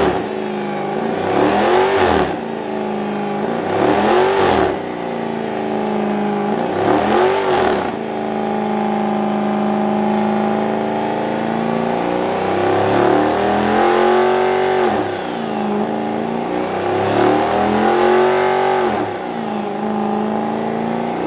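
Car engine revved hard in repeated swells about every two seconds, held at high revs for several seconds in the middle, then revved in swells again: a car doing a burnout.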